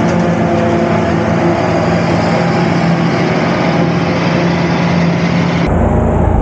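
A heavy engine running steadily, typical of tractor-driven farm machinery. The sound changes abruptly near the end.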